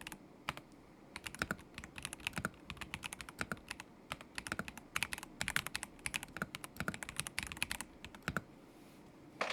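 Typing on a KZZI K75 Pro mechanical keyboard with Moment linear switches: quick bursts of keystrokes with short pauses between them. The keys stop for about a second near the end, then one louder keystroke lands.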